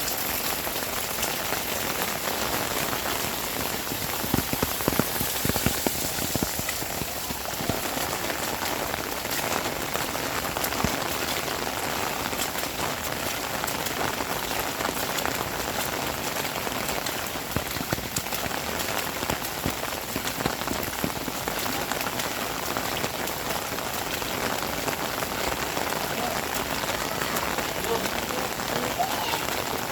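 Heavy rain falling steadily, a dense patter of drops hitting surfaces, with a few louder drop hits about four to six seconds in.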